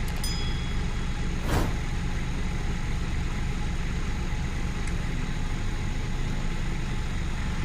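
Scania R-series truck diesel engine idling steadily at operating temperature, with one short sharp sound about a second and a half in.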